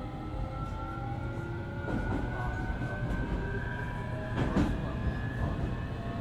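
JR Kyushu 817 series electric train accelerating, its inverter and traction motors giving a whine of several tones that rise slowly in pitch over the running rumble. This is an odd-sounding unit whose motor tone resembles a Keio 7000 series. Wheels knock over rail joints twice, about two seconds and four and a half seconds in.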